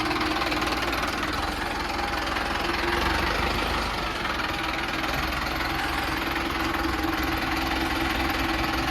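Diesel tractor engine running steadily at idle, a continuous low rumble with a steady hum.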